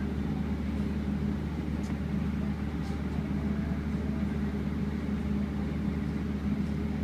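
Steady low mechanical hum or rumble, like an engine or motor running, with no change in level.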